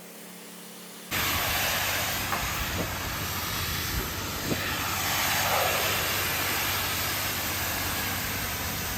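Pressure washer spraying water onto a house wall: a loud, steady hiss that starts suddenly about a second in, with the washer's engine running underneath.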